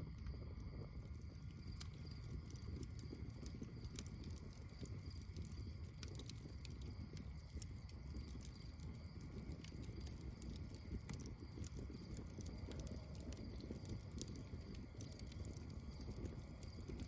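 Campfire burning: wood crackling and popping in scattered sharp snaps over a steady low rumble.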